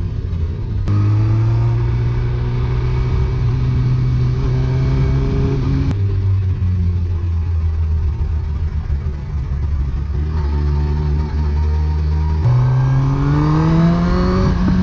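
2007 Suzuki GSX-R1000's inline-four engine through a Yoshimura R77 exhaust, ridden through the gears. The engine note jumps in pitch about a second in and again about six seconds in, runs steady, then rises strongly near the end as the bike accelerates hard.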